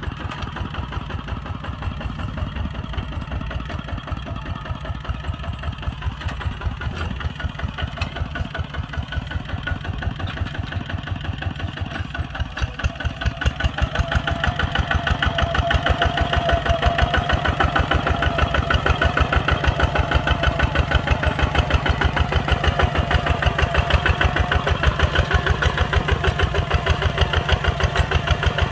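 Kubota ZT140 tractor's single-cylinder diesel engine running with a steady, even chugging beat. It grows louder about halfway through.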